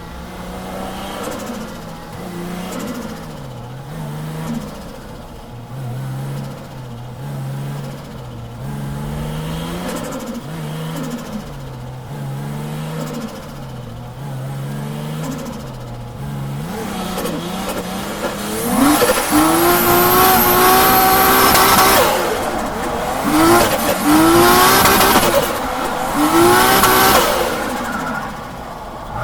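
Toyota JZX drift car's inline-six engine at low revs, its note rising and falling, then revving hard about eighteen seconds in with tyres squealing, followed by three sharp rev rises near the end. The driver says the engine is misfiring.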